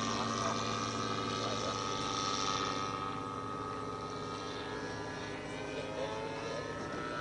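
Small model airplane engine running at a steady pitch, a buzzing drone whose brighter upper part fades about three seconds in.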